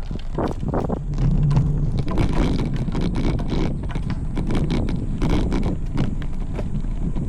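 Wind buffeting the microphone, with a steady low rumble and irregular sharp knocks and rattles throughout.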